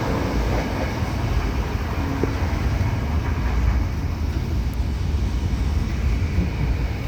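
Steady low rumble of a moving passenger train, the Yal Devi express, heard from inside the carriage.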